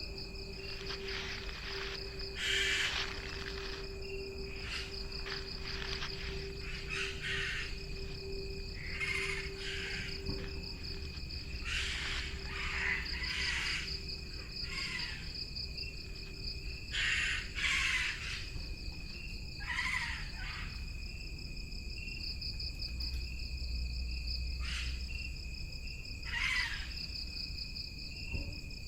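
Rainforest ambience: a steady, high-pitched drone of insects, with short bird calls breaking in every second or two.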